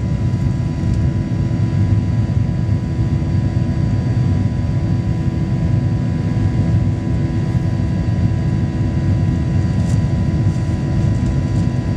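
Boeing 737-800 jet engines and airflow, a steady loud rumble with a faint steady whine and no rise or fall, as in the aircraft's climb after takeoff.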